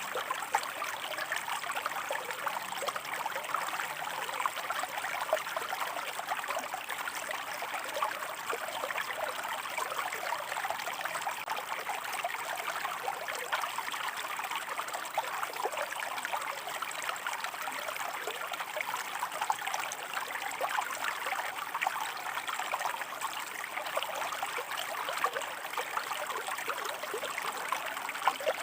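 Shallow river water running over rocks, a steady splashing and babbling flow.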